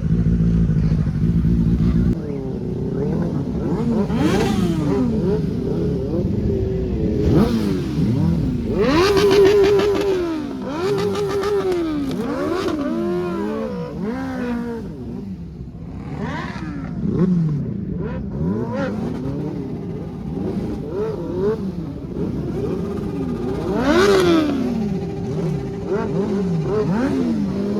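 Several motorcycle and car engines revving over and over, their pitch sweeping up and down in overlapping rises and falls, after a steady engine note in the first two seconds.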